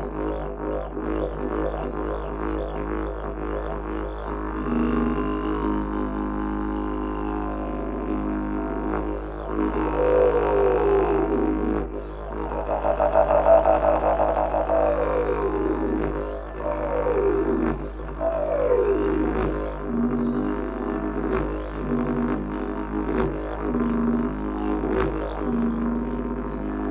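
Didgeridoo playing a continuous low drone, its overtones sweeping up and down again and again as the player shapes the sound, loudest about halfway through.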